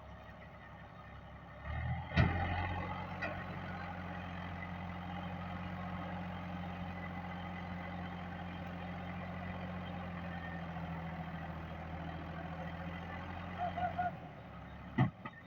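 Fiat tractor's diesel engine running steadily, starting with a loud sharp knock about two seconds in and cutting off near the end.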